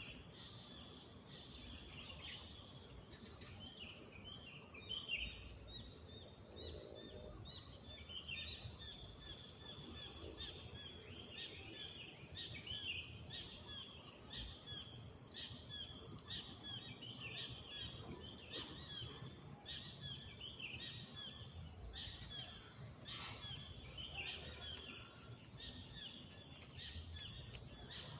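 Rural morning ambience: birds chirping in many quick, repeated calls, over a steady high-pitched drone of insects.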